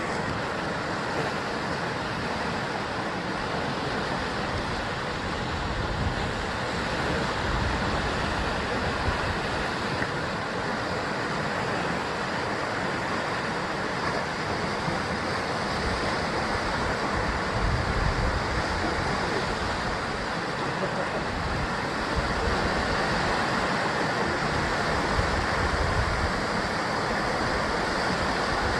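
Sea waves breaking on a rocky basalt shore: a steady wash of surf with deeper rumbling swells now and then.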